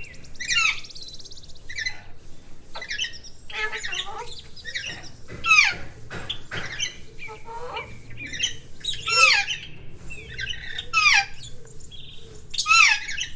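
Green parrot squawking in a run of short calls that sweep up and down in pitch, several of them louder and harsher than the rest.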